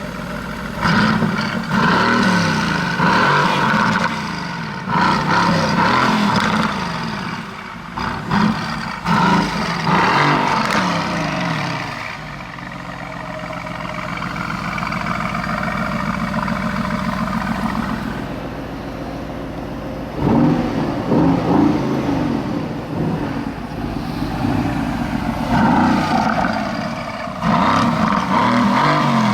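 Mercedes-AMG GT C's 4.0-litre twin-turbo V8 and exhaust revving up and down again and again, with a steadier stretch of running in the middle.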